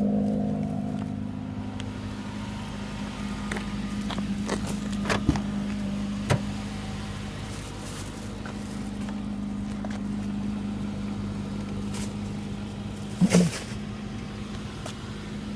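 Fiat 500X engine idling just after a cold start, its fast idle dropping to a lower, steady idle in the first second or two. A few sharp clicks or knocks stand out over it, the loudest near the end.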